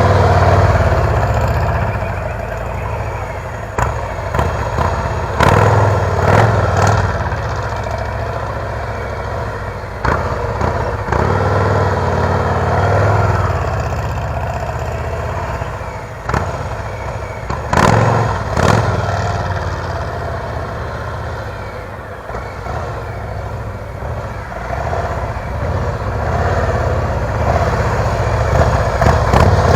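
Motorcycle engine running with repeated rises in revs as the bike pulls away from a stop, easing back between pulls, about three times.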